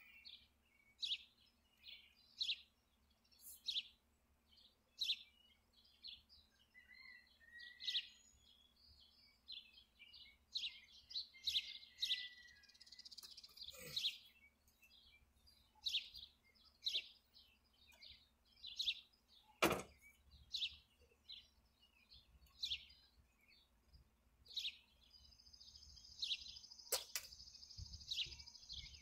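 Small birds chirping repeatedly, short high calls about once a second. Two sharp clicks are heard, one about two-thirds of the way through and one near the end.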